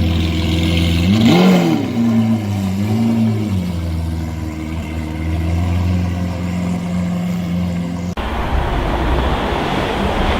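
A car engine idling with an even note, revved briefly twice: one quick rise and fall in pitch about a second in, a smaller one about two and a half seconds in, then back to a steady idle. A little after eight seconds it cuts abruptly to street traffic noise.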